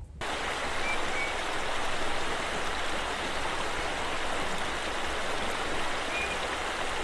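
Steady rushing of running water in a stream, cutting in abruptly just after the start, with a few faint short high peeps.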